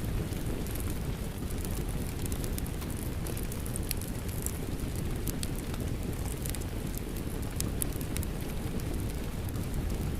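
Rain falling steadily, mixed with a fireplace's wood fire crackling in frequent sharp pops over a low, even rushing.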